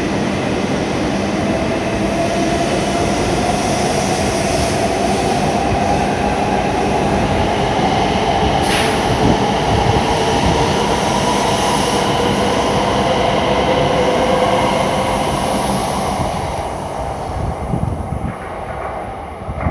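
E7 series Shinkansen train pulling out of the station and accelerating past the platform. Its wheels and running gear make a steady rumble under a motor whine that rises slowly in pitch, and the sound fades near the end as the last car leaves.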